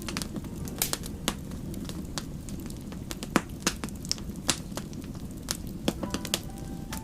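Wood fire crackling: irregular sharp pops and snaps, a few louder ones around the middle, over a steady low rumble of burning.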